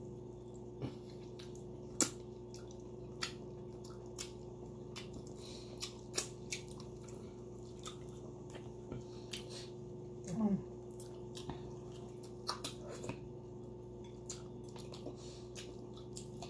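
Close-up eating sounds: chewing and wet lip smacks, many irregular sharp clicks, as air-fried milkfish is eaten by hand, over a steady low hum. A brief murmur of the voice about ten seconds in.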